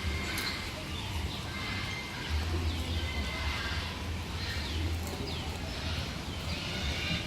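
Birds calling: a run of short, high calls that slide downward, about one a second, over a steady low rumble.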